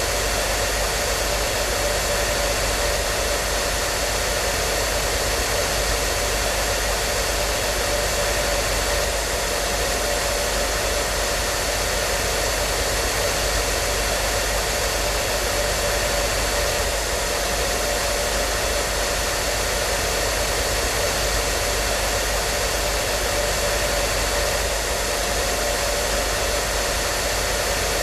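Hair dryer running steadily: an even rushing of air with a faint steady whine from its motor.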